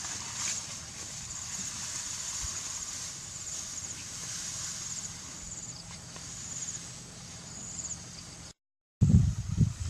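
Outdoor ambience: a steady hiss with short, high chirping trills repeating every second or so. Near the end the sound cuts out for a moment, then loud low rumbling noise comes in.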